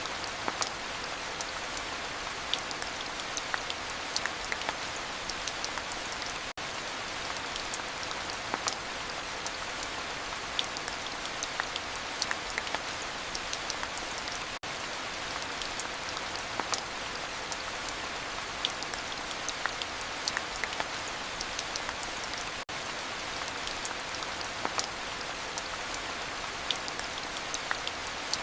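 Steady rain: an even hiss with many sharp taps of single drops close by, dipping out for an instant about every eight seconds.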